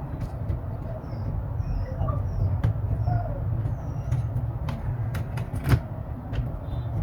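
Steady low background rumble, like street traffic, with scattered small clicks and knocks and one louder knock near the end.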